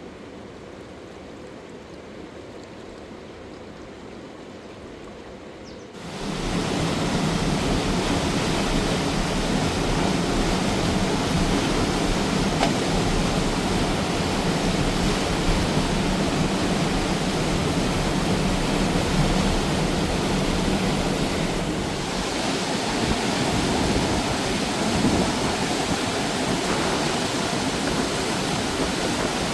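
Fast-flowing river water rushing over rocks, a steady noise with no pauses. It is fainter at first, then suddenly much louder about six seconds in.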